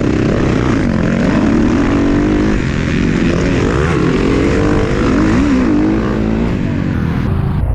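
Dirt bike engine revving up and down as it rides, the pitch rising and falling again and again. The higher hiss drops away abruptly near the end.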